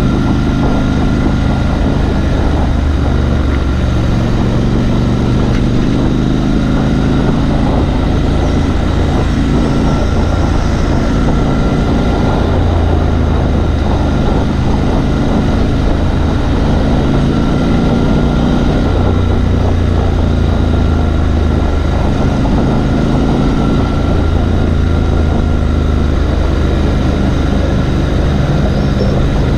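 Triumph Scrambler 1200XE's 1200 cc parallel-twin engine running under way, its pitch stepping up and down every few seconds with throttle and gear changes, over a steady rush of road and wind noise.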